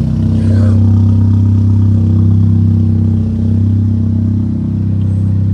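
BMW GT's engine running steadily just after a cold start, with a slight dip in loudness about three seconds in.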